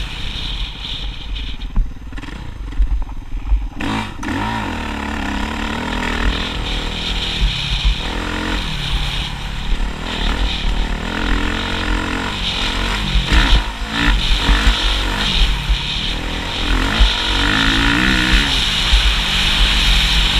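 Motocross motorcycle engine being ridden, its pitch rising and falling as the rider works the throttle and gears. It eases off about two seconds in and picks up strongly again about four seconds in. A low, gusty rumble of wind on the microphone runs underneath.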